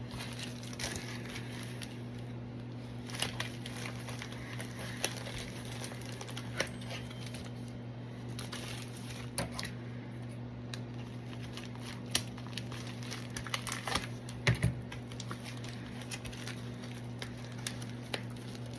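Packaging crinkling and rustling in short, scattered bursts as a mailed trading-card package is opened by hand, over a steady low hum.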